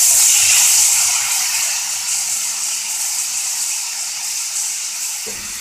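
Chopped tomatoes and shallots sizzling in hot oil in a pan: a steady, high hiss that slowly dies down.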